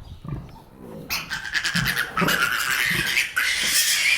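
Piglet squealing loudly and continuously while being picked up, starting about a second in, with one short break.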